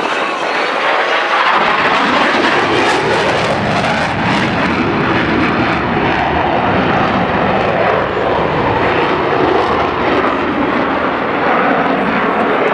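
Airplane engines running loud overhead, a dense roar that swells and deepens about a second and a half in and then holds steady.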